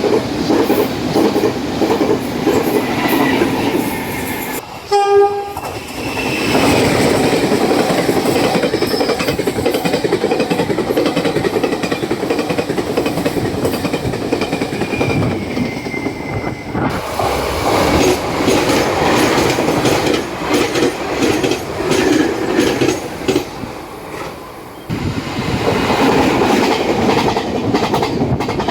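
Taiwan Railway trains passing at high speed one after another, wheels clattering over fishplate rail joints. A short train horn blast just before five seconds in.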